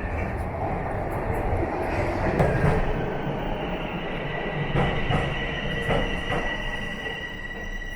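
Toronto subway train running, with a dense rumble and scattered knocks. From about halfway in, its wheels squeal in a steady high whine.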